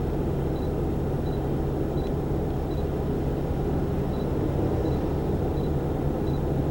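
Steady low vehicle rumble, with a faint high tick repeating about every 0.7 seconds.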